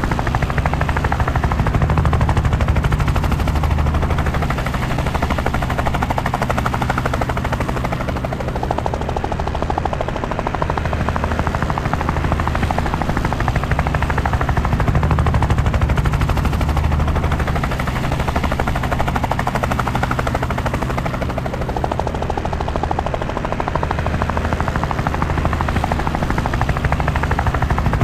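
Helicopter rotor and engine running steadily, the blades chopping in a fast, even beat over a loud low drone.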